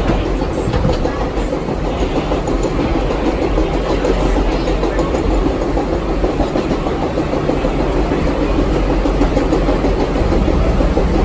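Vintage St. Louis-built R33WF/R38 New York City subway train running on the track, a steady loud rumble of wheels and motors.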